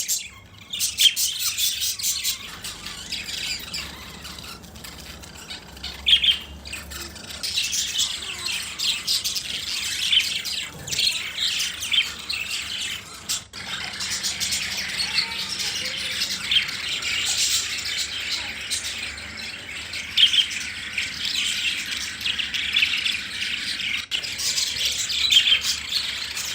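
Several lovebirds (small parrots) chirping and squawking together, a continuous high-pitched chatter.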